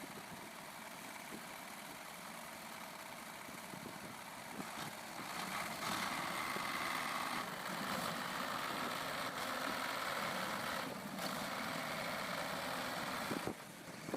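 A heavy machine's engine running steadily. It grows louder about five seconds in and drops off suddenly near the end.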